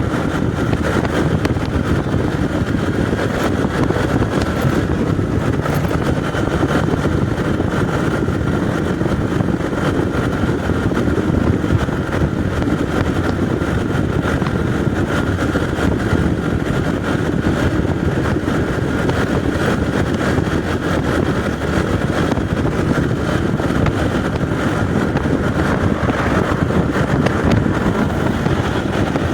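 Motorcycle engine running at a steady cruising speed, mixed with wind and road noise, with no change in pace.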